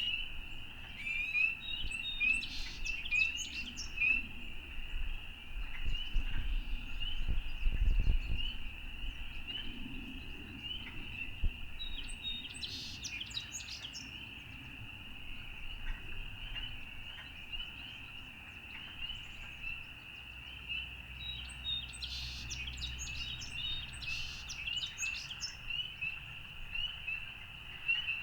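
A dense chorus of frogs calling without a break, with birds singing over it in three spells. A low rumble swells briefly, loudest about eight seconds in.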